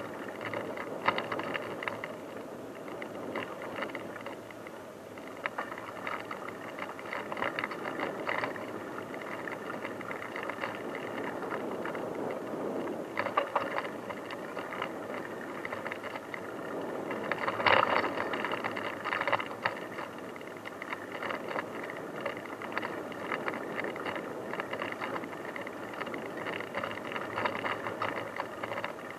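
Bicycle ridden over a rough dirt forest track: tyre noise under constant rattling and clattering of the bike, with a few louder jolts, the strongest about two-thirds of the way through.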